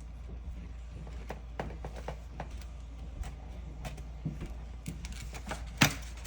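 Plastic Lego bricks clicking as pieces are handled and pressed together, a string of small irregular clicks with one sharper, louder click near the end.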